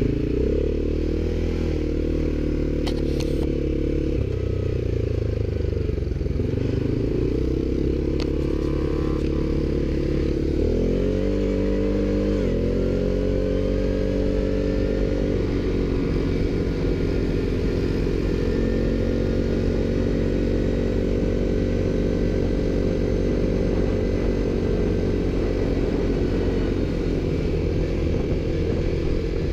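ATV engine running under way, its pitch rising and falling with the throttle, revving up twice in quick succession about a third of the way through.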